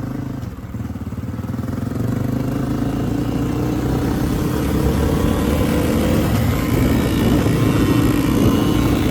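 Two kids' 50cc dirt bikes, a two-stroke Yamaha PW50 and a four-stroke Honda CRF50F, running flat out in a drag race. The engine sound grows steadily louder through the run.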